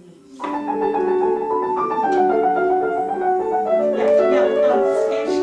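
Acoustic piano playing a short classical passage. It enters about half a second in as a run of quick, articulated melody notes over an accompaniment, and stops right at the end.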